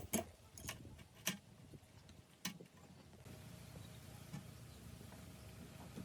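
A handful of sharp clicks and knocks in the first two and a half seconds, then a faint steady low hum.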